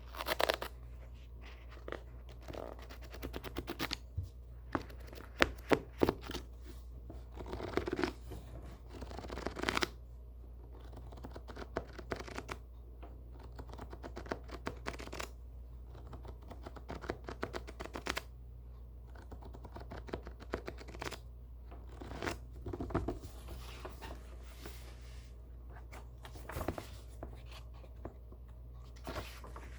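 Book pages being handled: irregular paper rustles and swishes as pages are turned, with quick bursts of rapid flicking as pages are riffled, around four and six seconds in.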